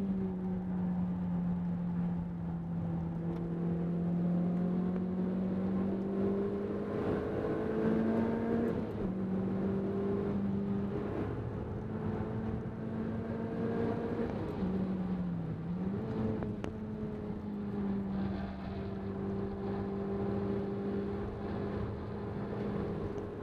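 Renault Clio 200 Cup's 2.0-litre four-cylinder engine pulling hard at high revs, heard from inside the cabin over tyre and wind noise. The engine note climbs steadily, drops in steps at gear changes and lifts, and dips sharply and climbs again about two-thirds of the way through.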